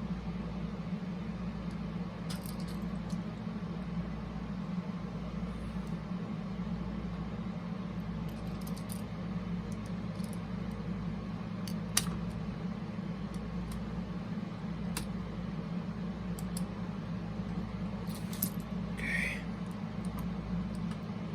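Scattered light clicks and ticks of small parts and tools being handled, the sharpest about twelve seconds in, over a steady low hum.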